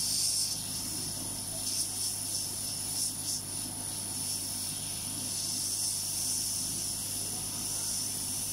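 Hot air rework gun blowing steadily: a continuous airy hiss over a low hum, used to heat and desolder a phone's battery connector from the board. A few faint light taps sound in the first few seconds.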